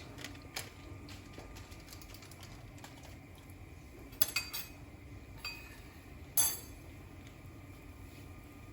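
Metal kitchen utensils clinking against a pan and dishes a few times, with a cluster of clinks about four seconds in and the loudest clink near six and a half seconds in.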